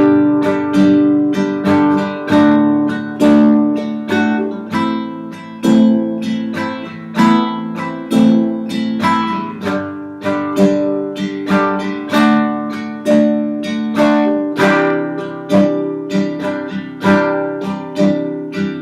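Acoustic guitar strummed in the 'campfire' pattern (down, down-up, then up-down-up), a steady repeating rhythm with a stronger downstroke at the start of each bar. The chord changes a couple of times, about ten seconds in and again a few seconds later.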